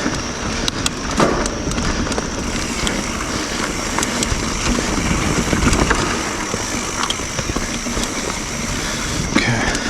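Mountain bike rolling along the trail, with tyre noise and scattered clicks and rattles from the bike. Behind it runs a steady rushing of water being let out to lower the lake.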